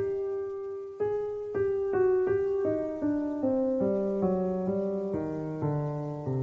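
Background music: a slow piano melody of single notes, about two a second, each ringing and fading, with lower bass notes joining near the end.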